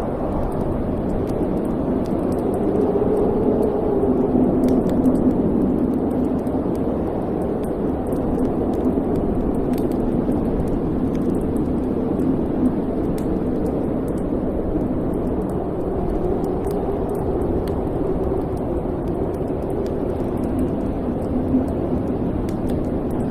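Wood fire burning in a fireplace: a steady low rumbling hiss, with faint scattered crackles and a few small pops, one near the middle.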